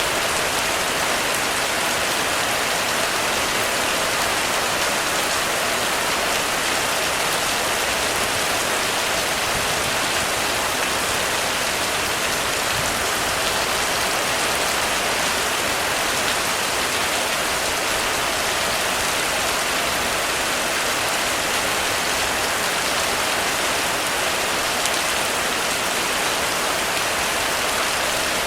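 Heavy rain falling on a roof: a steady, even hiss with no thunder.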